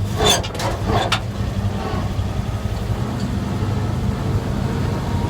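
1947 GMC truck engine running steadily at low speed after stalling, with a couple of short clunks in the first second or so; the owner thinks it probably needs a tune-up.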